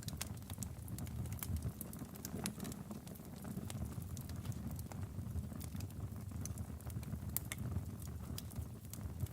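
Log fire in a fireplace crackling: irregular sharp pops and snaps over a low, steady rumble of burning wood.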